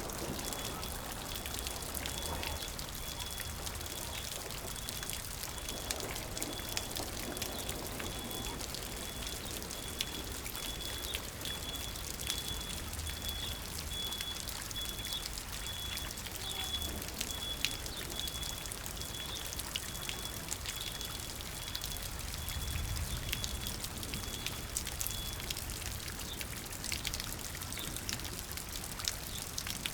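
Steady rain, with many single drops striking close by and water trickling and pouring. A thin, steady high whine runs through most of it and stops a few seconds before the end.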